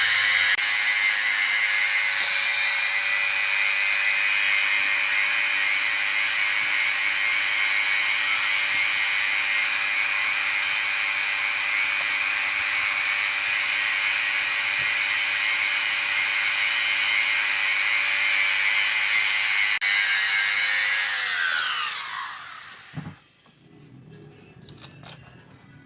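A small electric power tool motor running at a steady speed, then winding down to a stop about 21 to 23 seconds in. Short high bird chirps repeat every second or two throughout.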